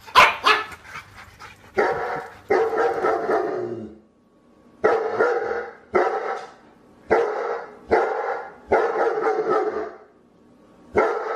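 A dog barking repeatedly in bursts, with short pauses between them.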